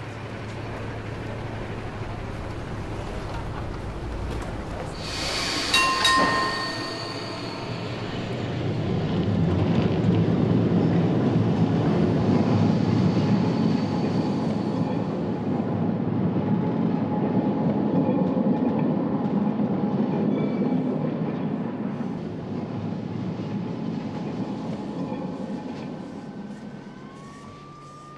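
A passenger train running past on the tracks with a heavy rumble that builds about eight seconds in, stays loud for around fifteen seconds, then fades. A brief high metallic squeal of wheels on rail comes about six seconds in.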